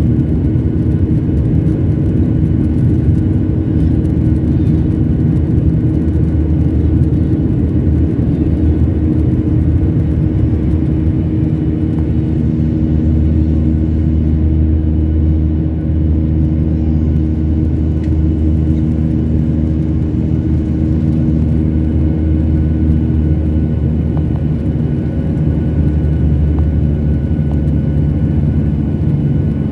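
Jet airliner cabin noise: a steady, loud low drone of the engines and airflow heard from inside the passenger cabin, with a few steady hums running through it.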